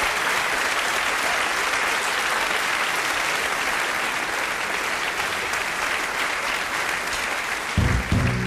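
Audience applauding steadily. Near the end the band comes in with two loud low notes that ring on.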